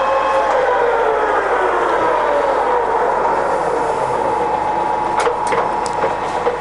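Scott 6250L centre lathe's geared headstock running with a whine. The whine drops in pitch over the first few seconds as the spindle slows, then holds steady. A few sharp clicks come near the end.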